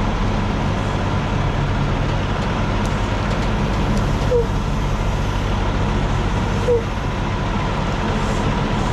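Heavy truck's diesel engine running steadily, with a constant drone. Twice a short, falling high chirp sounds over it.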